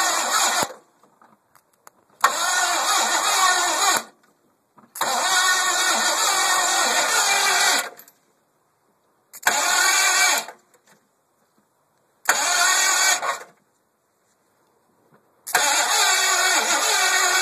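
The truck's starter motor cranks the engine in repeated bursts, each one to three seconds long, with silence between them as a wire is tapped on and off. The engine never catches and runs.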